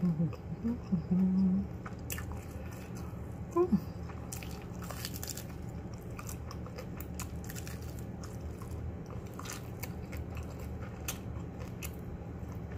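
Close-up eating sounds of crispy battered fried chicken with an almond- and oat-flour coating: chewing with many small crunches and wet clicks. A short closed-mouth "mm" hum comes in the first second or so.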